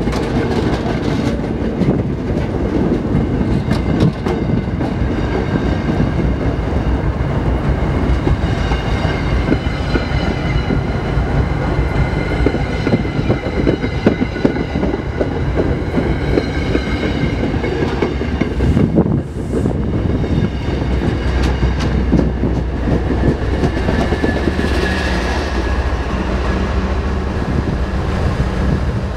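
MBTA commuter train of bilevel coaches passing close by, with a steady rush and rumble and the clicking of wheels over rail joints. The low rumble grows heavier near the end.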